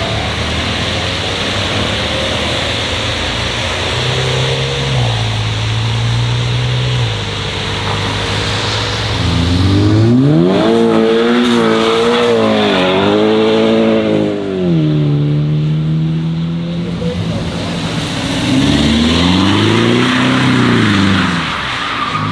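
Several modified cars' engines accelerating and passing. A steady engine note gives way about nine seconds in to revs climbing and dropping twice as a car pulls away, and near the end another engine rises and falls as it goes by.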